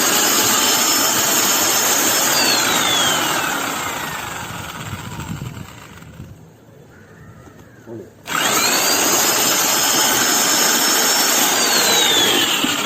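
Hand-held electric drill mixer run in two short bursts in a bucket of mix. Each time it spins up with a rising whine, runs at full speed for two or three seconds, then is released and winds down with a falling whine.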